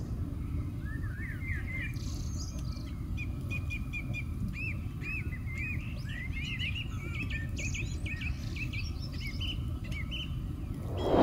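Small birds chirping and twittering in quick, repeated short calls, over a steady low rumble.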